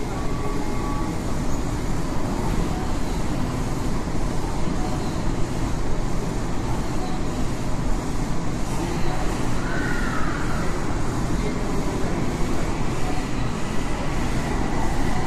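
Tokyu 3000-series commuter train standing at an underground station platform with its equipment running, then pulling away from the platform. A short motor whine is heard about ten seconds in.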